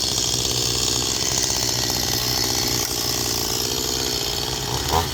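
Chainsaw running steadily at a distance, with a short, louder rise near the end.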